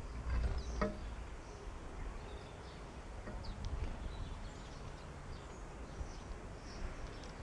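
Small garden birds giving short, high chirps here and there over a steady low rumble of wind on the microphone, with a brief tap about a second in.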